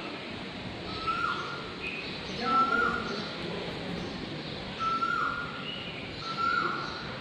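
A bird calling over and over, a short whistled note that drops at its end, repeated about every second and a half.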